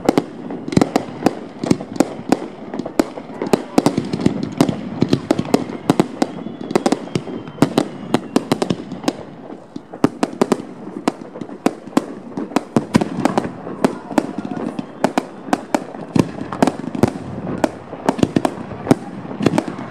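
Aerial fireworks salute bursting close overhead: a dense, irregular barrage of sharp bangs, several a second, over a continuous din of launches and crackle.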